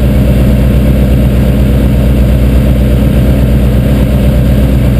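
Light aircraft's piston engine and propeller running at a steady, even drone in flight.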